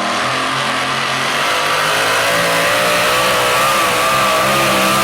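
Super modified four-wheel-drive pulling truck's engine at high revs under load, its pitch climbing slightly and then holding with a small waver. It gets a little louder about two seconds in.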